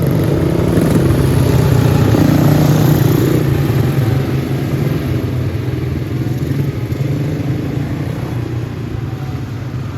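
Racing go-kart engines of the Briggs & Stratton Animal class running on track, a loud steady engine drone that swells around two to three seconds in and then slowly fades.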